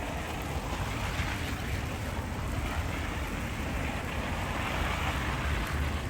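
Wind buffeting the microphone with a low, uneven rumble, over a steady hiss of wind and street traffic.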